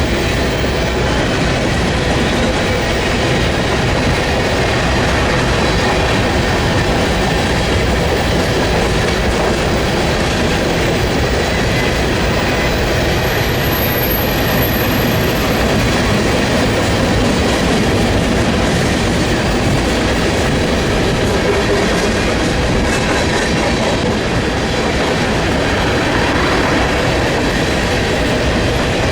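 Freight train cars rolling past at a steady speed, a continuous rumble of wheels on the track, with wind buffeting the microphone.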